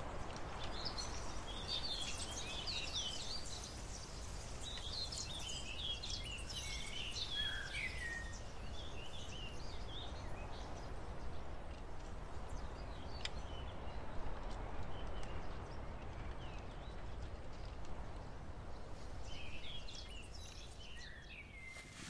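Small birds singing, many short quick chirps and trills, busiest in the first half and again near the end, over a steady low outdoor rumble.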